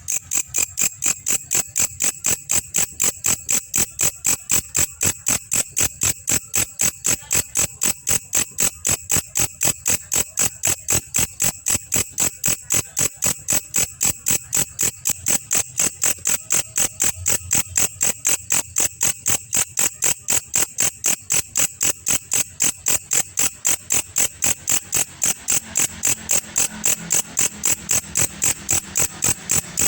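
Belalang kecek, a katydid, calling in a steady run of sharp, high chirps, about three a second, evenly spaced and unbroken.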